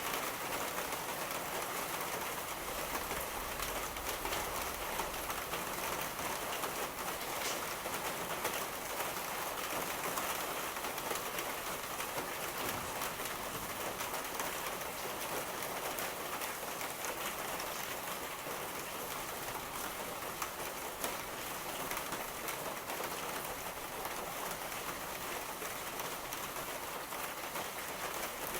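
Steady, heavy rain falling and pattering on surfaces, a continuous even hiss of drops.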